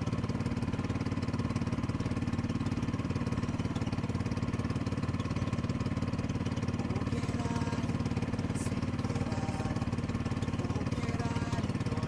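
Boat engine running steadily at constant speed, an even drone with no change in pitch.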